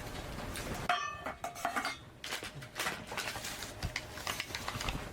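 Utensils clinking against dishes during a meal: one sharp, ringing clink about a second in, then scattered lighter taps and scrapes.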